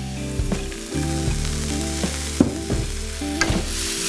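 Chopped carrot, ginger and green chillies sizzling in oil in a frying pan, with scattered clicks of stirring, over soft background music. The sizzle grows brighter near the end.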